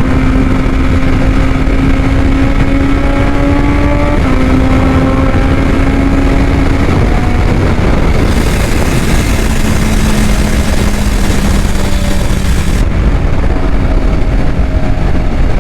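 Motorcycle engine running under way, its note climbing slowly and dropping back twice, at about four and seven seconds in, over a heavy rumble of noise. A band of hiss comes in at about eight seconds and cuts off at about thirteen.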